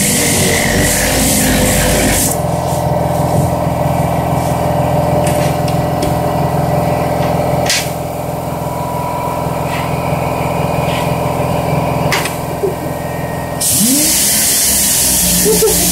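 An electric power tool running. There is a loud, even hiss in roughly the first two seconds and the last two, and a steady motor hum with fixed tones in between.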